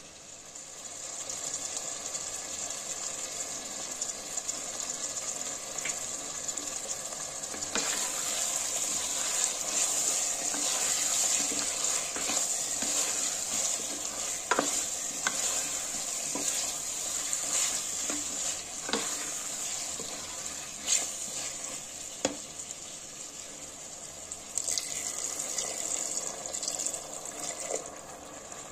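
Bottle gourd and chana dal frying in masala in a metal pot, sizzling steadily, while a spatula stirs and scrapes the pot with occasional sharp clicks. Near the end, water is poured in.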